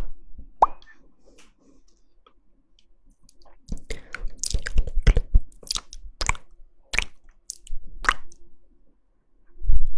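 Close-up ASMR mouth sounds: wet clicks, pops and smacking of the lips and tongue. One pop comes near the start, then a short pause, then a quick run of wet smacks and clicks.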